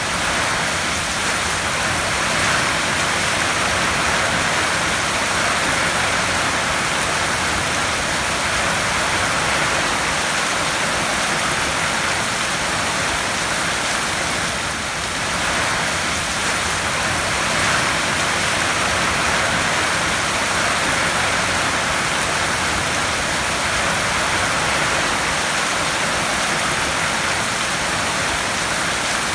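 Heavy rain falling on a tin roof: a steady, even rush of many drops.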